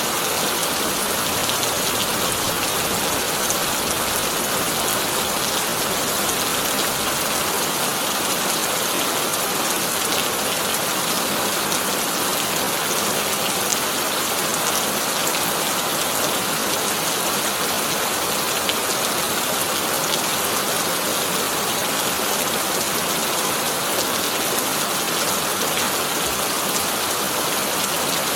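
Heavy rain drumming steadily on a corrugated tin roof, a dense even hiss with faint scattered drop ticks; no thunder.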